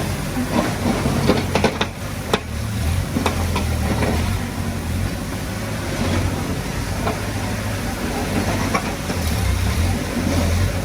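Heavy earthmoving machine's diesel engine running steadily, with scattered sharp knocks and clanks, clustered in the first few seconds, as stone is worked.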